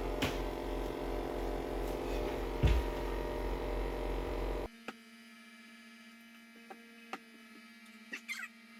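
Steady electrical hum made of many even tones, with a short knock near the middle. The hum cuts off abruptly a little past halfway, leaving a fainter steady tone and a few light clicks.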